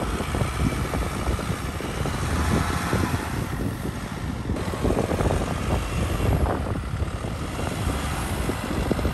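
Range Rover Evoque driving under load through soft beach sand, engine running steadily with its wheels churning and digging into the sand.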